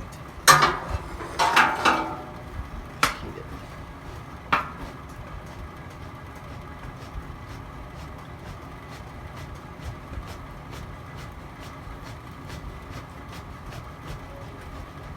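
Wood fire burning in a fireplace with faint crackles and small pops throughout. In the first few seconds there are several loud knocks and clatters, a short cluster then two single knocks.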